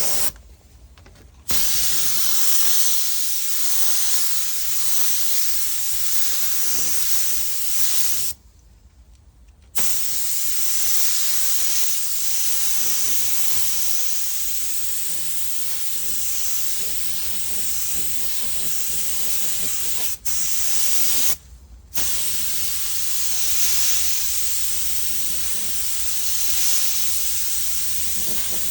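Compressed-air paint spray gun hissing steadily while spraying clear coat onto the repaired panel. The hiss cuts off abruptly a few times, for about a second each time.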